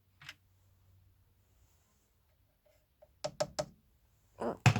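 Sharp knocks and clicks from handling a subwoofer's parts and cabinet during disassembly: one click, then three quick clicks a little past three seconds in, and a louder knock near the end.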